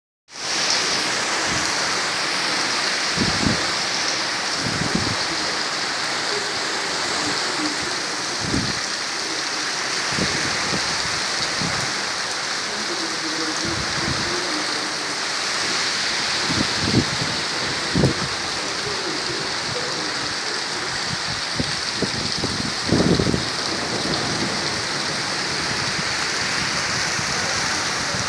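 Heavy rain falling steadily, with scattered short low thuds.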